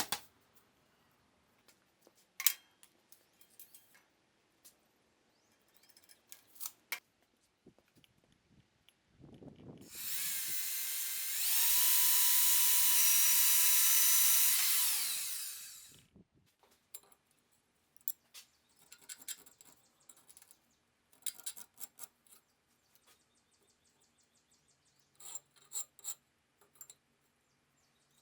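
Handheld power drill spinning up, running steadily for about five seconds with one step up in speed, then winding down. Scattered light clicks and knocks come before and after it.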